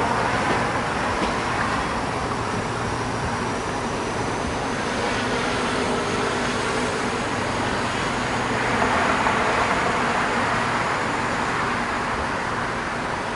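State Railway of Thailand passenger train running along the track, heard from an open coach window: a steady running noise of wheels on rail and rushing air, swelling slightly about nine seconds in.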